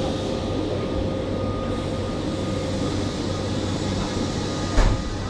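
Steady hum of a train standing at a railway station platform, with a single heavy thud near the end.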